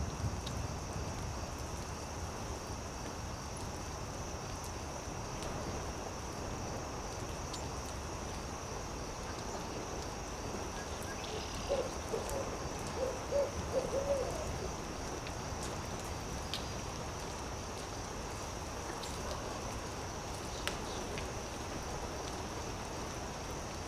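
Campfire crackling with sparse sharp pops over a steady high insect chirring. Partway through, an owl gives a quick series of about five or six hoots.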